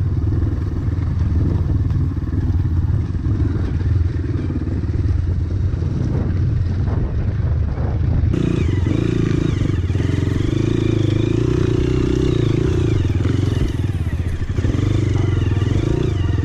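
Dirt bike engine running under load and revving up and down. About eight seconds in, a higher engine note that rises and falls joins in.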